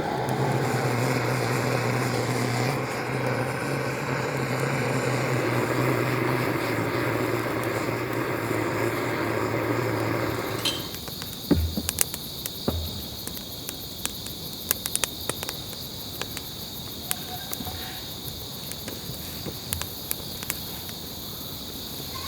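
A steady rushing noise with a low hum, like a vehicle running, cuts off abruptly about eleven seconds in. Insects then chirr in a steady high band, with scattered light clicks and a couple of low knocks.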